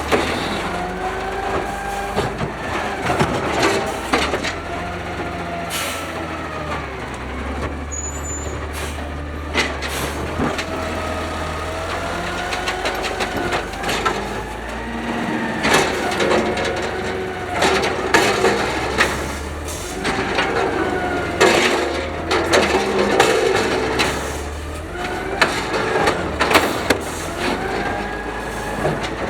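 Automated side loader garbage truck working: the engine drones under a hydraulic whine that rises and falls again and again as the arm and packer cycle, with repeated sharp bangs and clanks of carts being slammed.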